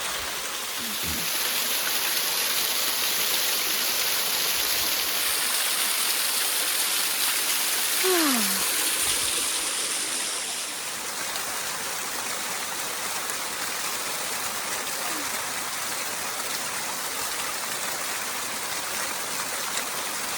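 Waterfall cascading over rocks, a steady, even rush of water. About eight seconds in, a short sound falls in pitch over the rush.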